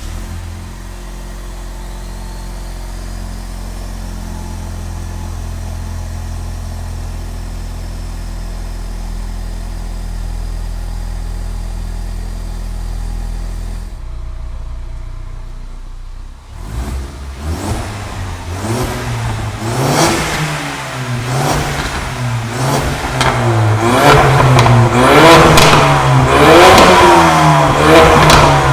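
Ford Mustang EcoBoost's 2.3-litre turbocharged four-cylinder engine running through a full stainless-steel exhaust with custom downpipe: it idles steadily for about 14 seconds, dips briefly, then is free-revved again and again, each rev rising and falling in pitch and getting louder toward the end.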